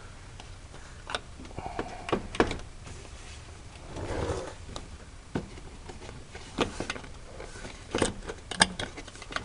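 Plastic push clips and the plastic engine undercover under a car being worked by hand: scattered clicks and knocks, with a short scraping rustle about four seconds in.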